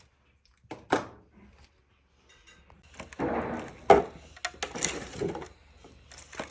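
Knocks and clattering from handling things in a kitchen: one sharp knock about a second in, then a louder stretch of rattling and thuds from about three seconds in.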